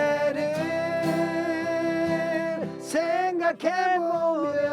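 A slow Korean ballad sung in long held notes that slide from one pitch to the next, over acoustic guitar strumming.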